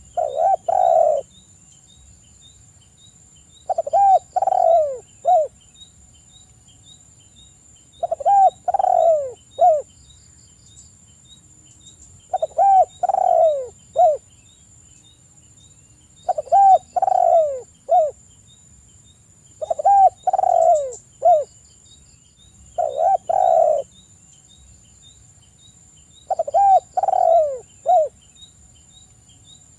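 Spotted dove (tekukur) singing its cooing song. It is a phrase of three or four coos, repeated about every four seconds, eight times over.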